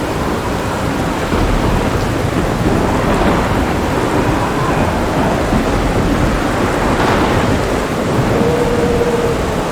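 Heavy rain falling steadily with deep, rolling thunder rumbling underneath; the rumble swells a little about a second in.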